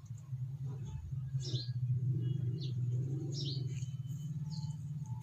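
Small birds chirping: short high chirps about once a second, over a steady low hum.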